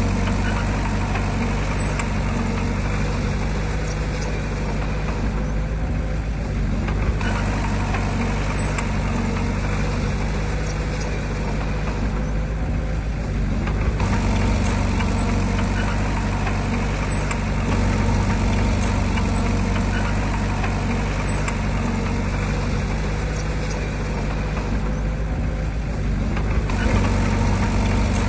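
Heavy diesel engine of earthmoving machinery running steadily with a low, even drone; the higher hiss eases off briefly three times.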